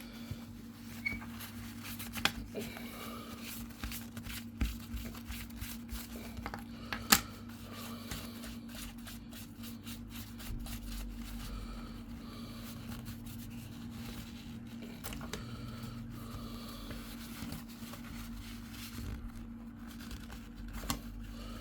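Paper tissue rustling and crinkling as it wipes down the fins of a laptop heatsink, with scattered light clicks and taps of the metal part being handled, the sharpest about seven seconds in.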